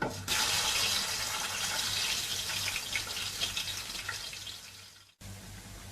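Hot oil sizzling as partly cooked chicken pieces are dropped in to shallow-fry. The sizzle starts suddenly and loudly, dies down gradually, breaks off about five seconds in, and comes back softer.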